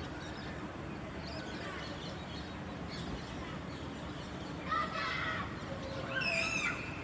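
Birds calling over a steady low background rumble, with two louder bursts of calls about five and six seconds in.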